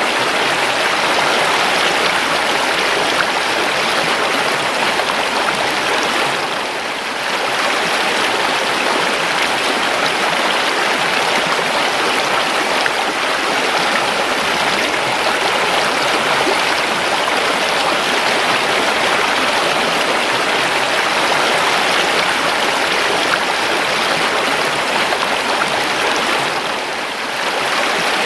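River water flowing steadily over stones, a continuous rushing and babbling that briefly softens twice, about a quarter of the way in and again near the end.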